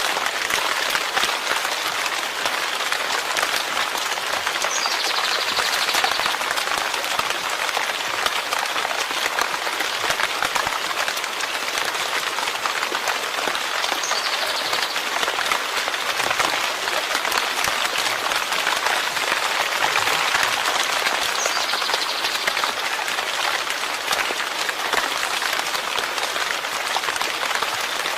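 Steady rain falling, a dense even hiss of many drops pattering without pause.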